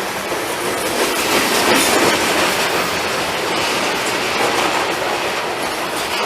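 Long freight train passing close by: railcar wheels running on the rails with a clickety-clack over the rail joints, loudest about a second or two in.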